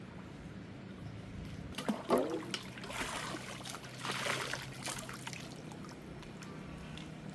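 Water trickling and splashing in a few short spells, the loudest about two seconds in, over a steady low background hum.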